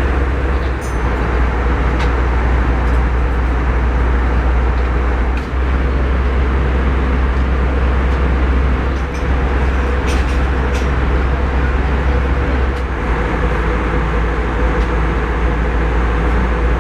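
Airbus A320 cabin noise: a steady, loud rumble of engines and airflow with a constant hum running through it and a few faint clicks.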